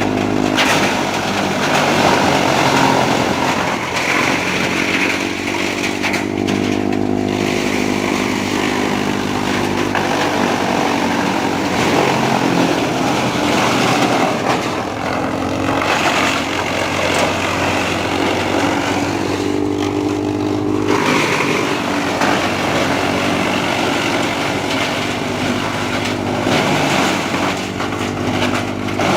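Trakstar 545 DI tractor's diesel engine running steadily while it drives a wood chipper. A harsh, noisy layer over the engine note swells and fades several times, and the engine's pitched hum comes and goes with it.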